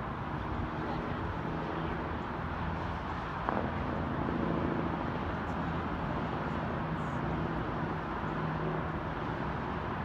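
Steady outdoor rumble of a Metro-North electric commuter train rolling slowly along the tracks, mixed with road traffic, with a low hum running under it and one sharp click about three and a half seconds in.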